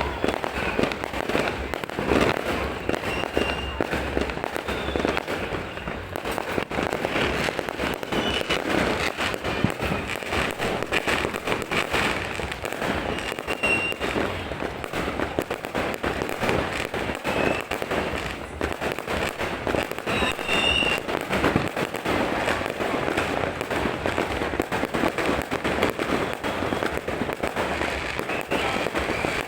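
Many fireworks and firecrackers going off without a break: a dense, steady stream of bangs and crackling, with a few short high whistles now and then.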